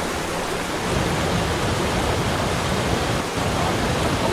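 Waterfall: water falling, a steady full rushing hiss.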